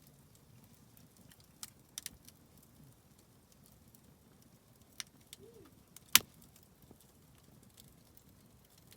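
Wood campfire crackling: a few sharp pops over a low background, the loudest about six seconds in.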